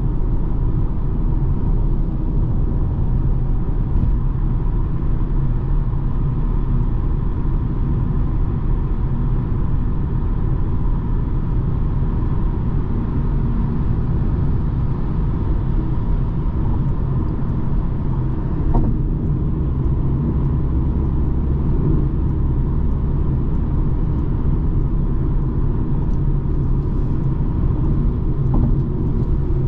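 Steady low rumble of a BMW 220d xDrive Gran Coupe driving along: four-cylinder diesel engine and tyre-road noise, even throughout, with a single faint click about two-thirds of the way in.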